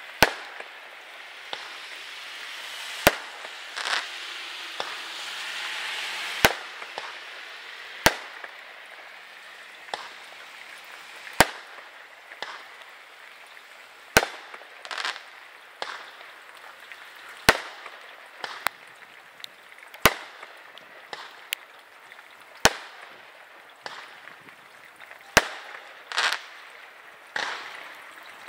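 Aerial fireworks going off one after another: about a dozen sharp bangs, one every two to three seconds, with fainter pops and crackles between them over a steady hiss.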